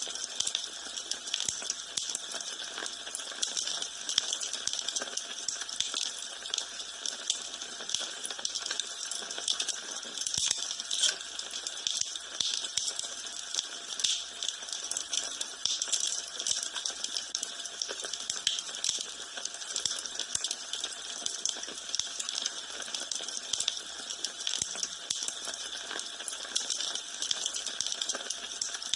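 Wood fire burning in a fireplace: a steady hiss with many small pops and crackles throughout.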